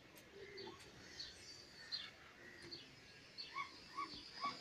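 Birds chirping in short, repeated high notes, faint, with a quicker run of evenly spaced chirps near the end.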